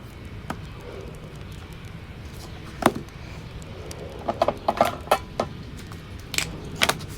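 Wood fire crackling in a fireplace: irregular sharp pops and snaps, with a quick cluster of them in the second half, over a steady low rumble.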